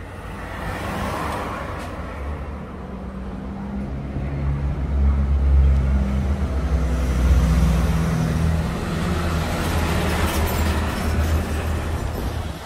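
Honda CG 160 motorcycle's single-cylinder four-stroke engine running steadily, growing louder for a few seconds in the middle.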